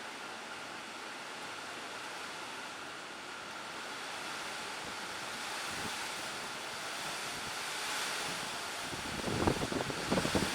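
Typhoon storm noise: a steady rushing of wind and rain that slowly builds, with gusts buffeting the microphone in thumps near the end.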